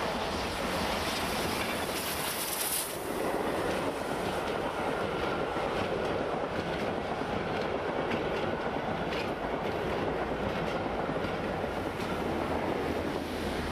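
A steam-hauled passenger train passing: a brief hiss about two seconds in, then the coaches rolling by with steady wheel clatter over the rails.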